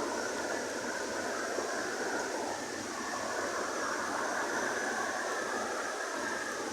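Rain falling steadily, a constant even hiss.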